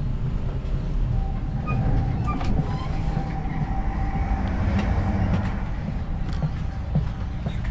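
ÖBB Cityjet (Siemens Desiro) electric multiple unit running along the track: a steady low rumble with occasional clicks from the wheels, and a faint steady tone for a few seconds.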